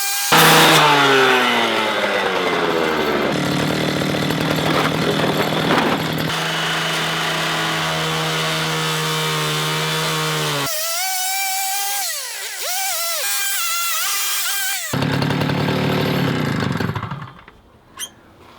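Power saw cutting into a rusted car body. Its motor pitch drops as the blade bites, holds steady under load, rises and wavers for a few seconds in the middle, then drops again before the saw stops near the end. The saw is failing to get through a section that the operator judges too thick for the length of its blade. Two short clicks follow.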